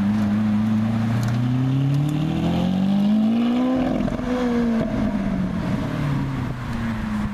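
Lamborghini Aventador LP700-4 Roadster's V12 engine as the car drives past: running steadily at low revs, then climbing in pitch as it accelerates, dropping sharply about four seconds in and settling back down.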